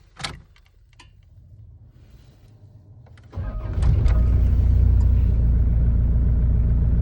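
A sharp click and a few small clicks, then about three and a half seconds in an old Toyota Land Cruiser Prado 78 diesel engine cranks briefly and catches at once, settling into a steady idle. It is a cold start at the first attempt, a sign that the starting fault is cured: air had been leaking in at the fuel heater switch's faulty seal.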